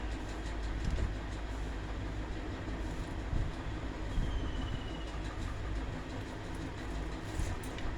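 Electric table fan running: a steady low hum with an even rushing noise over it.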